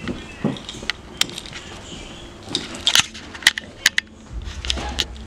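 A scatter of sharp clicks, knocks and crunches, about eight of them, with a low steady rumble that comes in near the end.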